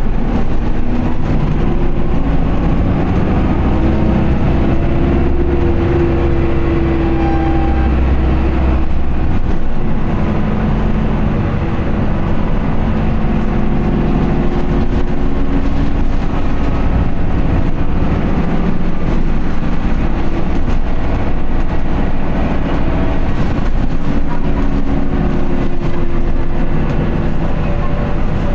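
Isuzu Erga city bus's four-cylinder turbo diesel pulling under hard acceleration, its pitch climbing, dropping at a gear change about nine seconds in, then climbing again.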